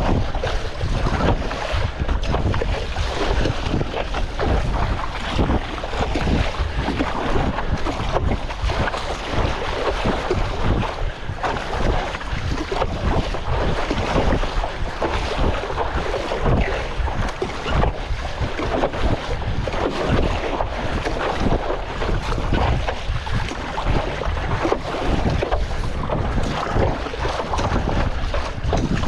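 Strong wind buffeting the microphone over choppy sea water sloshing and splashing, a steady rough rush with constant uneven gusting.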